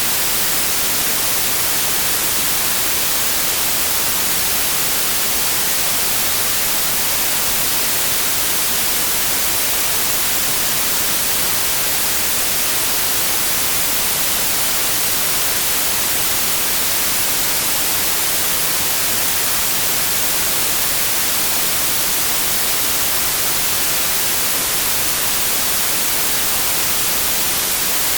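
Digitally generated pure white noise: a steady, even hiss that is brightest in the highs, unchanging throughout.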